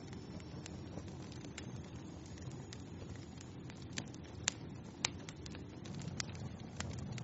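Fire burning in a fireplace: a steady low rush with scattered sharp crackles and pops, the sharpest about four and a half and five seconds in.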